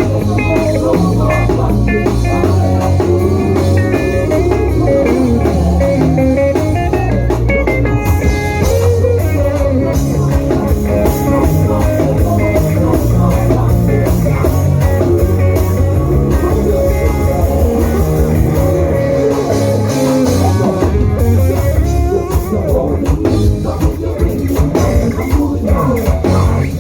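Loud, steady live praise-and-worship band music led by guitar, over bass and a drum kit.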